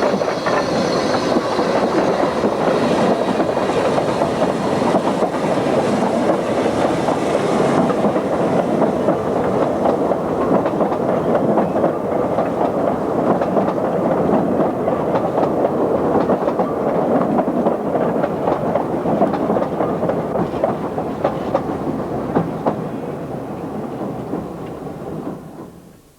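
Narrow gauge train running on the Welsh Highland Railway, a steady rumble with rapid clatter of wheels on the rails; it fades out near the end.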